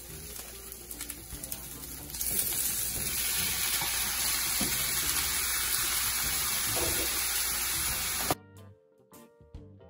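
Saltfish, spring onion and hot pepper frying in oil in a pan: a steady sizzling hiss, louder from about two seconds in while ackee is tipped in and stirred. Near the end it cuts off abruptly to background music.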